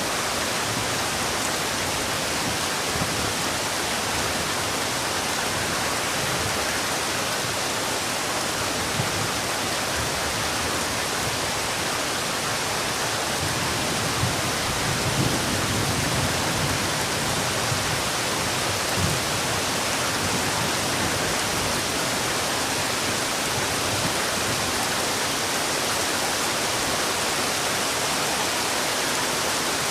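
Heavy rain falling steadily as a dense, even hiss, with a few faint low thumps about halfway through.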